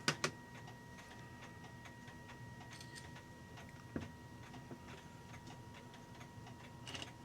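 Small metallic clicks and taps from the brass clock movement as its plates and gears are worked apart, loudest as a sharp double click at the very start. Faint steady ticking runs underneath.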